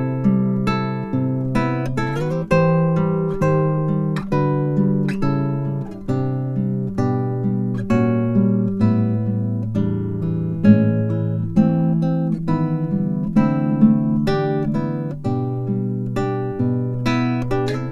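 Acoustic guitar music: notes plucked one after another in a steady, even rhythm.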